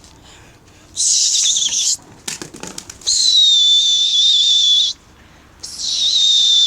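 A pigeon keeper whistles three long, breathy, high-pitched whistles, the way pigeon flyers drive their flock up and keep it flying. The last one rises at the end.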